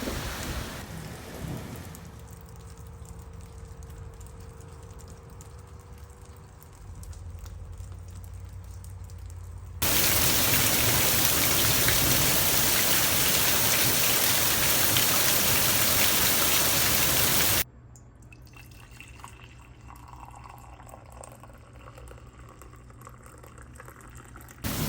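Rain falling, in several abruptly changing sections: moderate at first, then a loud, close downpour for about eight seconds in the middle, then quieter again after a sudden cut.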